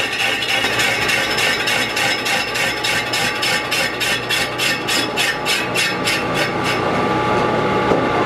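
Hand tool working metal on a truck wheel rim in quick, even strokes, about four a second, that die away near the end.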